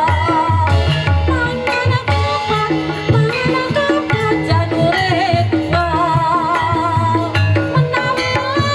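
Javanese gamelan music accompanying a jaranan dance, with kendang hand drums keeping a steady driving rhythm under melodic instruments and a wavering sung line.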